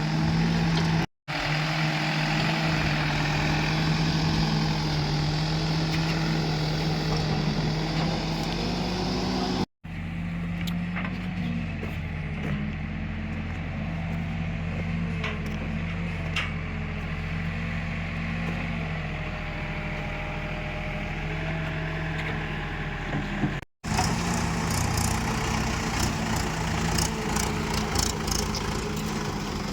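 Diesel engines of a backhoe loader and tractor running steadily, broken by three brief silent gaps, with scattered clicks and knocks in the last few seconds.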